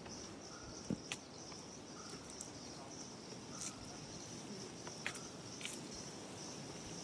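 Forest insects chirring in a steady, high-pitched drone, with a few short knocks scattered through it.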